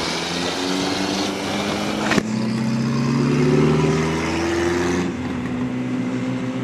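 Yamaha R1's inline-four engine pulling away, its pitch rising for a few seconds under wind noise before settling to a steady, slightly quieter note. There is a sharp click about two seconds in.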